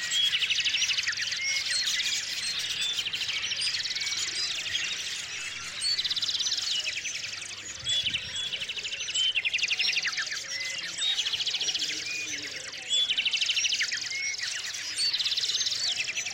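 Small songbirds singing and chirping. Fast trills of rapidly repeated notes start again every few seconds, overlapping one another, with scattered chirps between them.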